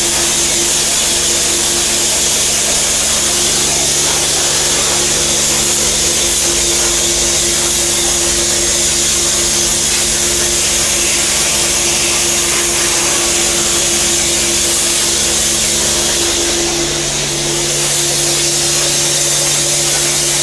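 Car-wash pressure washer running steadily, its pump motor humming under the hiss of the water jet as the engine bay is rinsed. The hum shifts a little in pitch about three-quarters of the way through.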